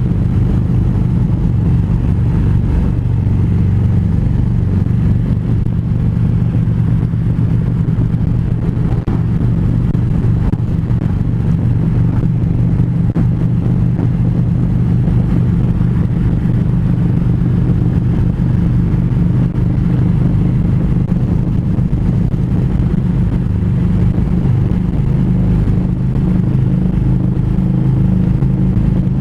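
Harley-Davidson V-twin motorcycle engine running steadily at cruising speed, holding an even pitch throughout.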